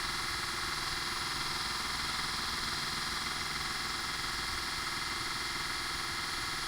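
Homemade belt grinder's electric motor running with the belt spinning, a steady hum with hiss that does not change.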